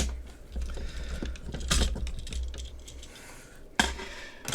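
Hard plastic toy parts of a DX BoonBoom Robo clicking and rattling as pieces are unclipped and swapped, with a sharper snap a little under two seconds in and another just before the end.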